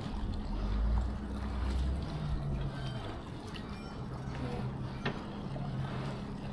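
Lake ambience: a steady low engine hum from motorboats on the water, with faint water sounds. A deeper low rumble swells in the first two seconds.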